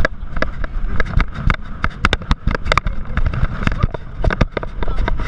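Rushing wind and water over a GoPro's waterproof housing on an inflatable ride towed at speed behind a speedboat, a heavy low rumble with many sharp slaps and knocks as the ride bounces over the waves.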